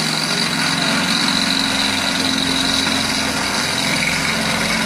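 Power drill running steadily with a 1/4-inch bit, drilling out a spot weld in the car's sheet-metal quarter panel, with a steady high whine over the motor's hum.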